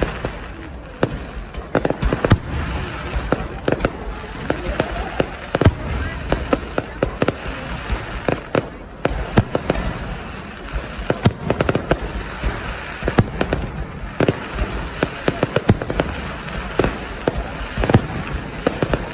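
Fireworks going off in a dense, continuous volley: many sharp bangs and pops at irregular intervals over a steady rushing background.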